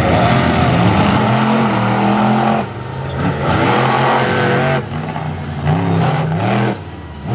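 Monster truck engines revving hard during a race, the pitch climbing in three pushes, each cut short as the throttle is lifted, about three seconds in, near five seconds and near the end.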